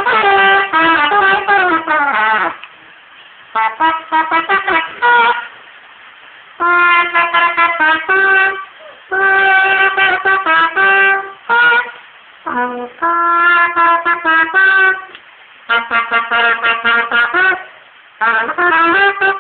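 A trumpet playing a melody in short phrases of held notes and quick runs, with brief pauses between phrases.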